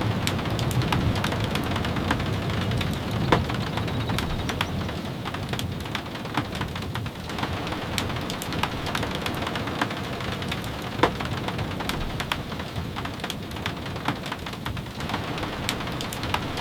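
Steady rain falling, with scattered sharp ticks and pops throughout. A low rumble fades away over the first several seconds.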